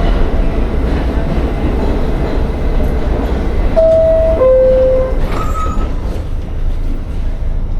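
New York City subway train rumbling. About four seconds in, a two-note chime sounds, high then low, and a brief higher tone follows.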